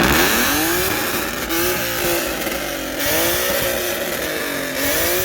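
S550 Mustang's 3.7-litre V6 revved repeatedly through a loud free-flowing exhaust, its pitch falling and rising several times.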